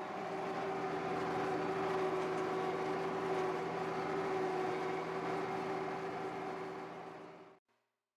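An engine running steadily at an even speed, fading out a little before the end.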